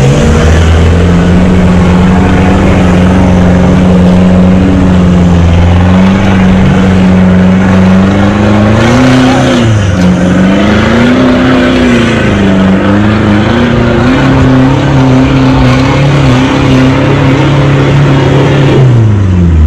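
Toyota four-wheel drive's engine pulling up a steep dirt track, its revs rising and falling a few times about halfway through, then dropping away near the end.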